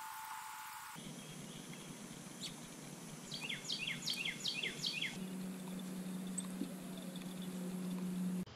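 A songbird calling: a quick series of about seven clear notes, each sliding steeply down in pitch, over about three seconds, against a steady outdoor hiss. A steady low hum comes in about halfway through.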